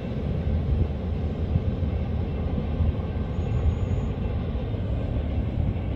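Low, steady rumble of a manifest freight train's cars rolling away into the distance.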